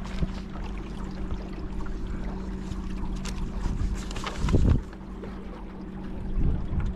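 Small electric boat motor humming steadily on a kayak, with water and wind noise around it. A louder low thump comes about four and a half seconds in.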